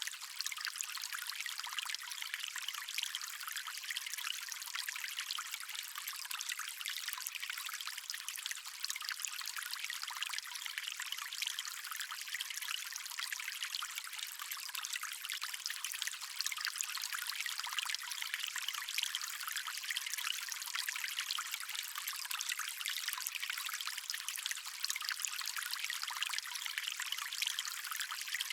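Stream of water flowing steadily, a continuous trickling rush. It is thin and hissy with almost no bass.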